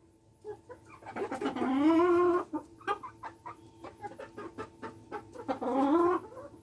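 Polish chickens clucking in short repeated notes, with a longer drawn-out call about a second in and another near the end.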